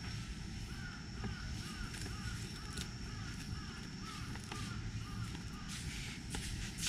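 Birds calling: a run of short repeated calls over a faint steady high tone and low background noise, with a few light clicks near the end.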